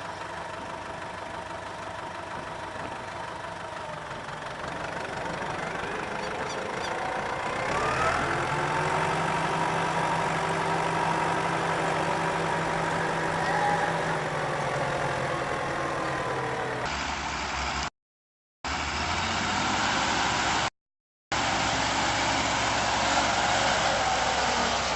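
Heavy vehicle engines running. The first one revs up about a third of the way in and holds there. Then come short cuts of other engines working hard, separated by abrupt breaks of silence.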